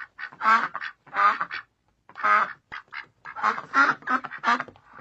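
Domestic ducks quacking: a string of short quacks, spaced out at first, then coming in a quicker run in the second half.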